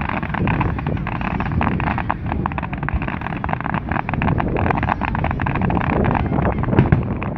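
Fireworks display: dense, continuous crackling over a low rumble of bursting shells, with wind buffeting the microphone.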